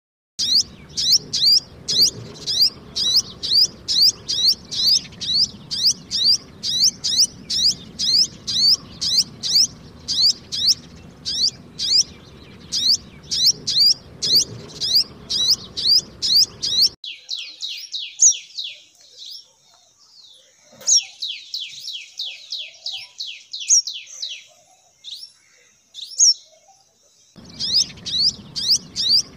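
Sunbird chirping: a fast, steady run of high, sharp chirps, about three a second. About 17 seconds in it gives way suddenly to a quieter stretch of quicker, falling chirps, and the first run starts again near the end.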